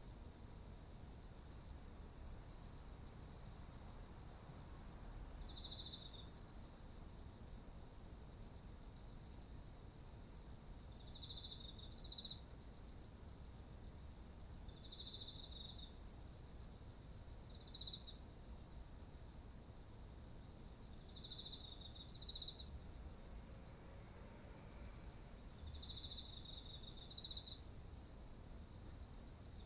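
Several autumn insects singing together: one steady high trill, a lower pulsing trill in long phrases broken by brief pauses every few seconds, and short chirps now and then.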